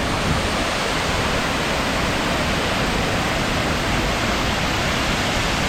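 Waterfall: water pouring hard over rocks in a steady, loud rush.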